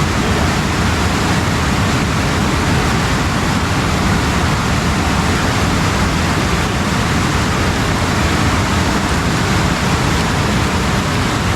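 Fast-flowing water after rain, rushing steadily and loudly.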